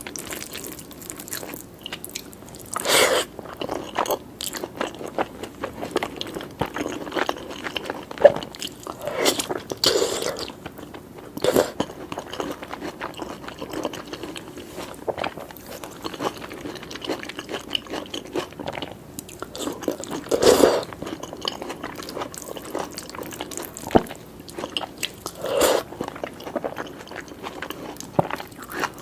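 Close-miked eating: irregular chewing with wet smacks and crunchy bites of a lamb and egg curry meal with rice, grilled tomato and peppers. A few louder bites stand out, about three, ten, twenty and twenty-five seconds in.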